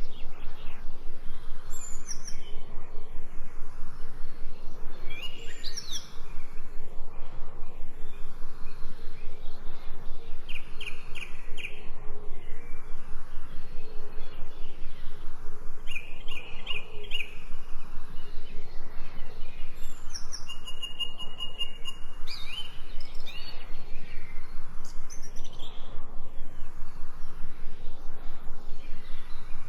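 Several birds chirping and singing: short calls, brief rapid trills, and one clear held whistle about twenty seconds in, over a fast, even pulsing background sound.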